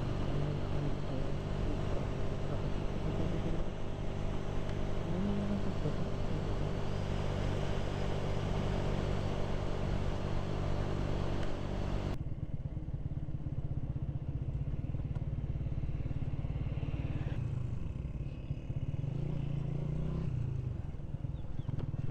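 Honda CG 125's single-cylinder four-stroke engine running steadily while riding, under a hiss of wind and road noise. About halfway through the hiss drops away suddenly, leaving mostly the engine's low hum, which rises and falls briefly near the end.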